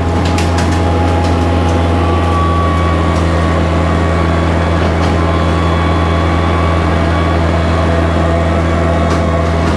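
Kubota tractor's diesel engine running steadily at a constant speed under load from the bush hog, a loud low hum, with a few short sharp clicks near the start and again near the end.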